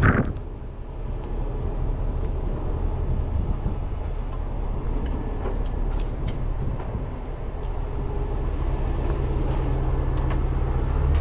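Heavy vehicle engine running steadily with a low rumble, with a few faint clicks over it.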